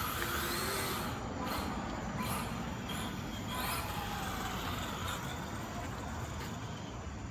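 Radio-controlled rally car running at a distance, its motor whine rising and falling with the throttle over a steady rumble, with a few short knocks.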